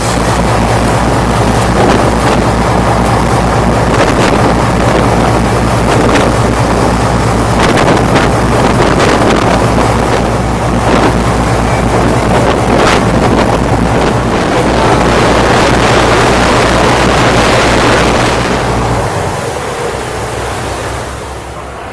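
Motorboat engine running steadily under way, with wind buffeting the microphone and water rushing past the hull. The engine hum and the rush fall off about three seconds before the end.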